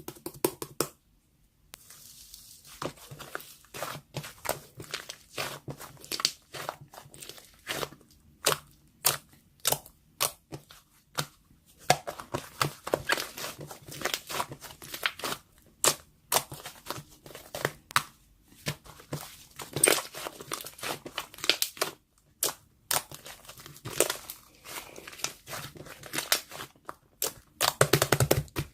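Slime being squeezed, poked and stretched by hand, making irregular crackling, clicking and popping sounds as air pockets burst, in dense clusters with short pauses.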